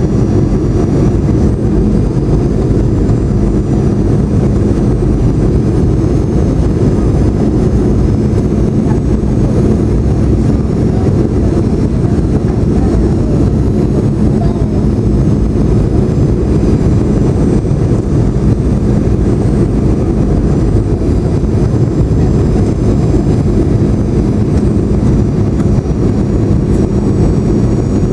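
Steady cabin noise inside a Boeing 737-800 in flight: a dense low rumble of its CFM56 jet engines and rushing airflow, with a steady hum and faint high whines above it.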